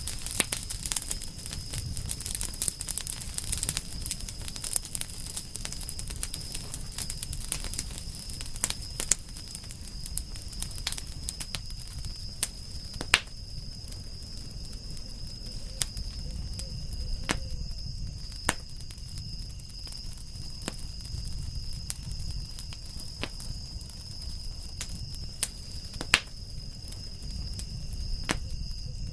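Wood campfire crackling, with sharp pops scattered irregularly over a low rumble. A couple of pops stand out as the loudest, about halfway through and near the end.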